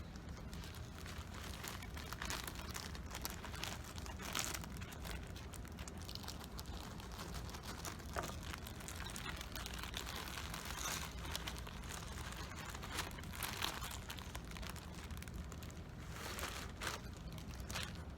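Bird seed being poured from its plastic sack into a small craft-stick bird feeder: steady rustling and crinkling of the bag and seed, with a few sharper crackles.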